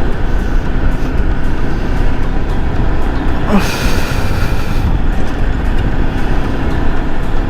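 Heavy wind rush on the microphone over a Yamaha R15 V3's single-cylinder engine running steadily at highway speed. About three and a half seconds in, a brighter hiss lasts about a second.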